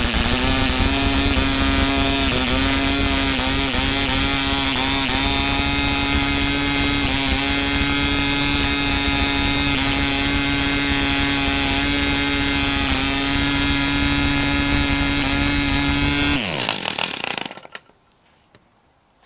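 1963 FOK 2.5cc two-stroke model diesel engine running steadily at high speed, turning a 9x6 propeller. Near the end it cuts out and the note falls away within about a second, leaving near quiet with a few faint clicks.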